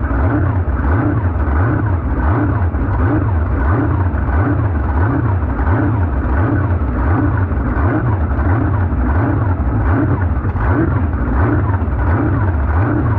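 V8 jet sprint boat engine running loud and continuous, with a regular pulsing rise and fall about once a second.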